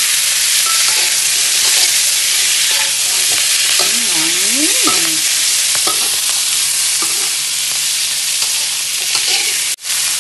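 Freshly added green beans sizzling loudly in hot butter in a metal wok, with a metal spatula stirring and scraping them against the pan. The sizzle is steady and cuts out for an instant near the end.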